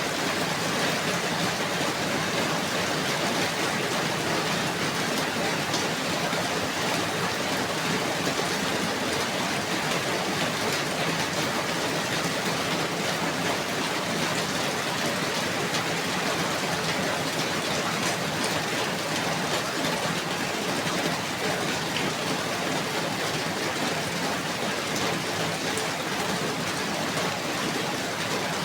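Steady rain falling, an even dense hiss with scattered drops striking a surface.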